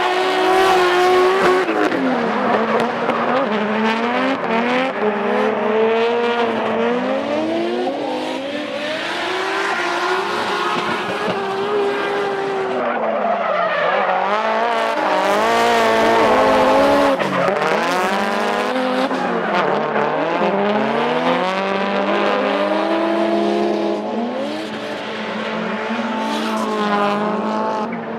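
Drift cars in a battle, their engines revving up and down again and again over a haze of tyre squeal and skidding. Several engine notes overlap, rising and falling every second or two as the throttle is worked through the corners.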